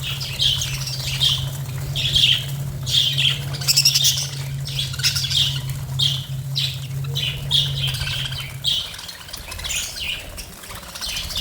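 Budgerigars chattering in quick, short high chirps. Under them runs a steady low hum that cuts off near the end.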